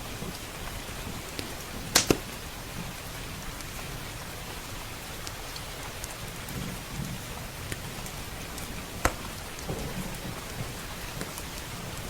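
Steady rain with a crackling wood fire: two loud sharp pops about two seconds in and another about nine seconds in, over scattered small ticks. Soft low rumbles of thunder in the second half.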